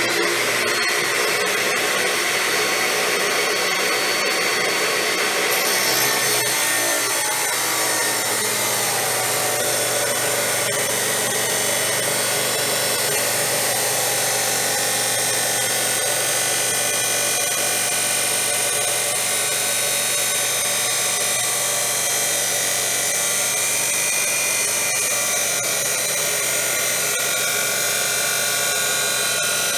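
A 14-inch abrasive wheel chop saw running and grinding through steel stock: a steady, unbroken grinding with high-pitched ringing tones, the cut that leaves the metal too hot to touch.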